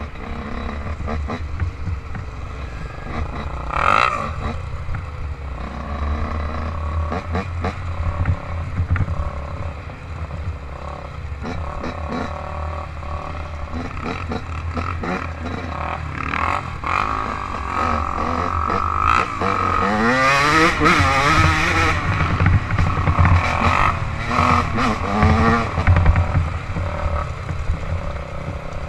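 Small off-road engine running under load and revving, with a rise in pitch and louder passages about two-thirds of the way in, over a steady low rumble and scattered clattering.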